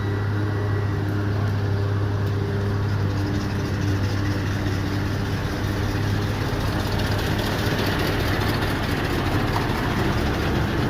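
Heavy diesel truck engine running steadily with a deep, even hum, and a hiss that grows louder in the second half.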